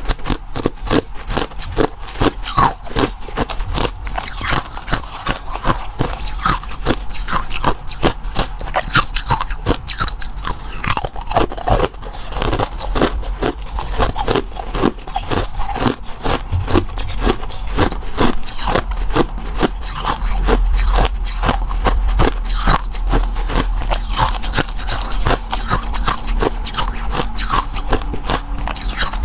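Close-up eating sounds: steady biting and crunching, a rapid stream of crisp crackles with no pause.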